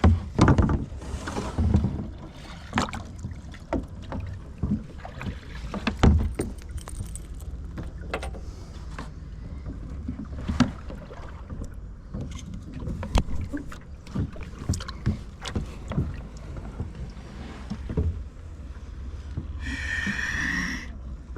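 Kayak and paddle sounds in shallow water: irregular knocks and clicks against the hull and water sloshing over a low rumble. A short high-pitched sound comes near the end.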